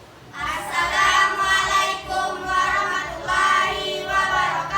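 Junior high school student choir starts singing about half a second in, many young voices together.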